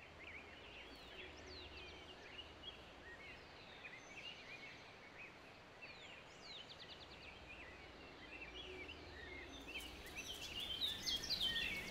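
Birds chirping and calling: many short chirps, trills and quick rising and falling calls over a faint steady hiss, growing louder in the last couple of seconds.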